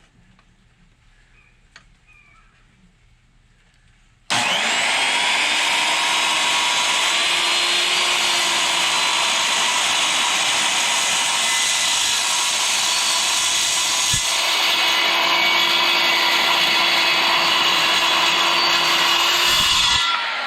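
Power saw, plausibly a metal-cutting circular saw, starts abruptly about four seconds in and runs steadily, loud, cutting through the forklift's steel overhead guard. It stops near the end and its motor begins to wind down.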